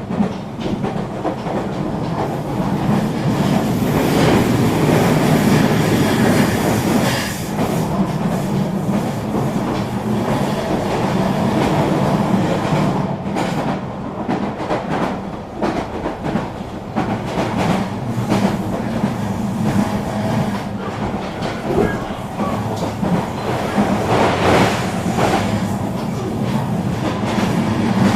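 Eurobahn regional electric train running along the track: a steady rumble and hum with irregular clicks of the wheels over rail joints. It grows louder a few seconds in and again near the end.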